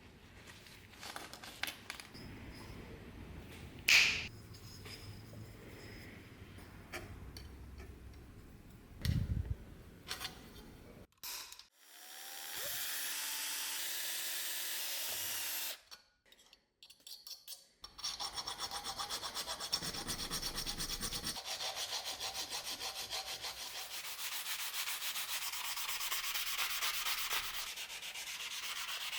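Hand sanding: a few knocks of handling in the first part, a steady hiss lasting about four seconds near the middle, then fast, even back-and-forth sanding strokes through the last third.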